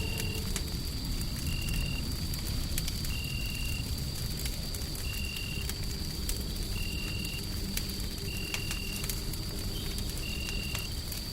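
Crackling wood fire over a steady deep white-noise rumble: scattered sharp pops and snaps, with a thin steady high whine and a short high chirp that repeats about every second and a half.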